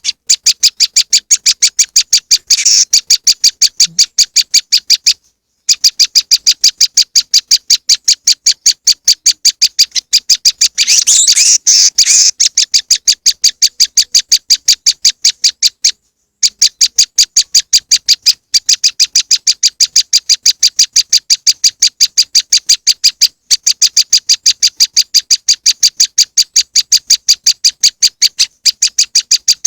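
Prenjak lumut (moss wren) calling in a loud bird-lure recording: rapid, evenly repeated high chips, about four a second, with a few brief breaks and a busier, denser flurry of calls about eleven seconds in.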